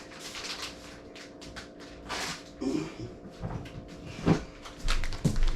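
Crinkling and rustling of a plastic bag of shredded cheddar being handled and opened, with a few sharp knocks about two, four and five seconds in, over a faint steady hum.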